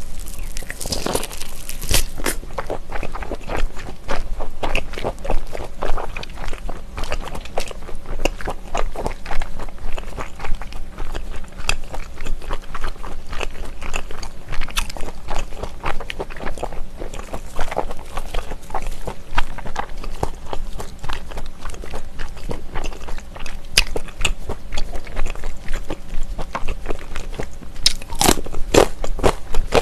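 Close-miked biting and chewing of a slab of smoked pork belly: a dense, steady run of chewing clicks. Near the end come a few sharper, louder crunchy bites into a raw cheongyang green chili pepper.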